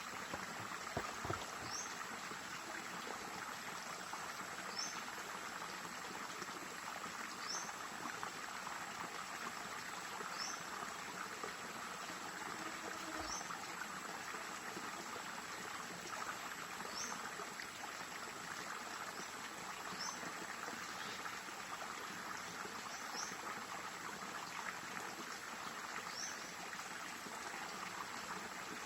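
Stream water flowing and trickling steadily. A short, high, rising chirp from a small creature repeats about every three seconds, nine times in all.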